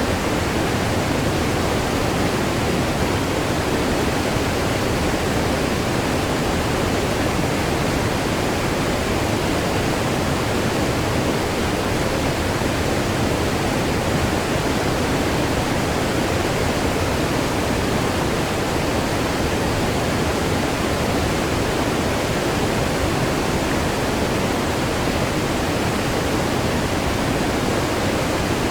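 Waterfall heard close up: a steady, dense rush of falling water, strongest in the low and middle range.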